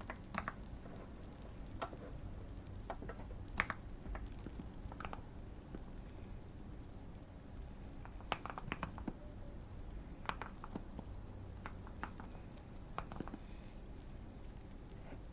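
Fireplace crackling: irregular small pops and snaps, about one a second, over a steady low rumble.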